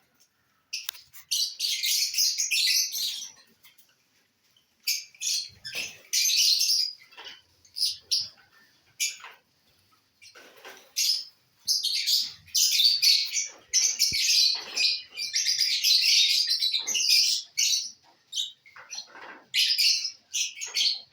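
Pet lovebirds chattering in shrill bursts of chirps, in stretches lasting from a moment to several seconds with short pauses between.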